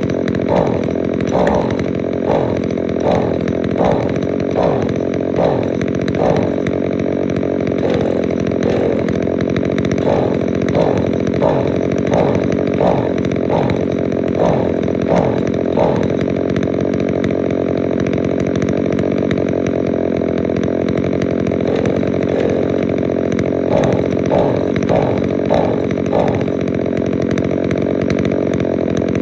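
Small gasoline string trimmer engine running shortly after a cold start. It runs steadily, and in stretches its sound rises and falls in a regular pulse about twice a second.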